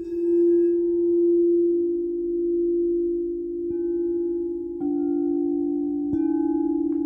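Singing bowls ringing in long, overlapping tones with a slow wobbling beat, struck again about three and a half, five and six seconds in.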